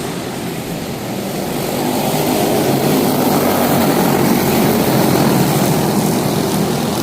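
Quarter midget race cars with Briggs & Stratton Animal single-cylinder engines running at racing speed, the engine noise growing louder about two seconds in.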